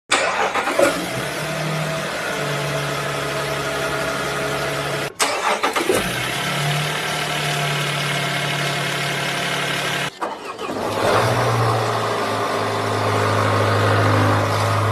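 Three diesel car engines, one after another, each starting with a short uneven burst and then settling into a steady idle, with abrupt cuts between them about five and ten seconds in.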